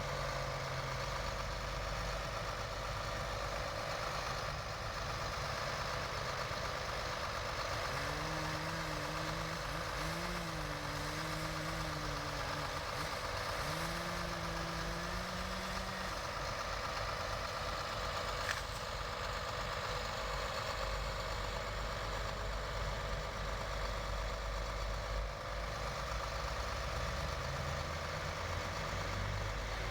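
Heavy machinery engine running steadily, with a wavering hum rising and falling for several seconds in the middle and a single sharp click later on.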